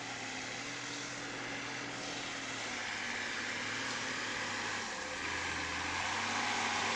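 A motor vehicle's engine running steadily under a wash of noise, slowly growing louder.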